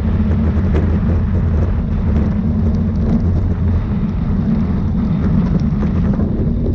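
Steady low rumble of wind buffeting the microphone of a camera on a moving road bicycle, with faint scattered ticks.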